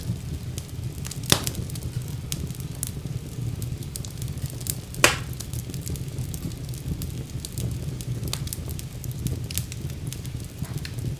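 Wood fire crackling in a fireplace: a steady low rumble of flame with frequent small crackles, and two louder pops, about a second in and about five seconds in.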